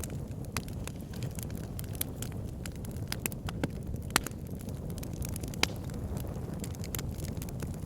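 Wood fire in a log burner crackling: a steady low rumble of burning logs with irregular sharp pops and snaps, a few louder ones about four and five and a half seconds in.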